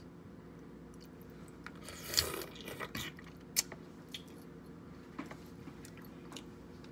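Eating king crab legs: shells cracking and snapping with chewing, the loudest cluster of cracks about two seconds in, then scattered sharp clicks. A steady low hum runs underneath.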